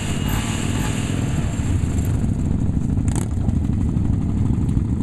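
Motorcycle engines idling steadily, a low continuous throb from the parked bikes.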